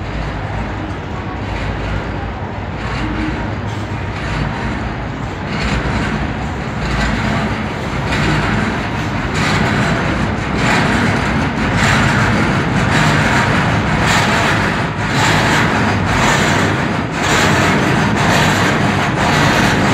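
Goods train of covered wagons rolling slowly past. Its wheels clack rhythmically over the rail joints, and the knocking grows louder from about halfway through.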